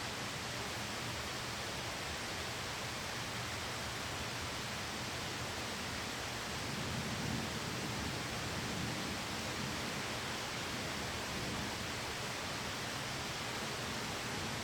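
Steady rain ambience, an even hiss of rain falling on a window, with a low rumble that swells slightly about seven seconds in.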